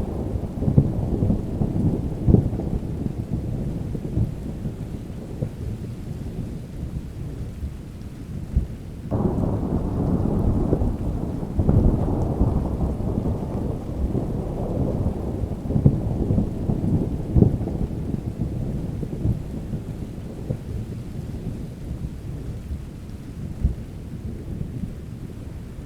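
Thunderstorm: steady rain with low rolling thunder. A fresh peal of thunder breaks suddenly about nine seconds in, another about twelve seconds in, and the rumble fades slowly toward the end.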